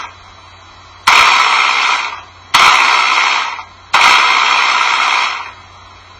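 Model engine running without its flywheel, firing roughly: three sudden loud bangs about a second and a half apart, each trailing off over a second, over a faint steady low hum. The rough, banging running shows that nothing smooths out the power strokes with the flywheel removed.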